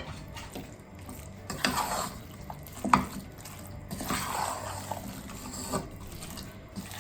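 A spoon stirring a thick, wet mixture of marinated chicken and fried masala in a pot, with swishing strokes and a few clinks against the pot, one sharper than the rest about three seconds in.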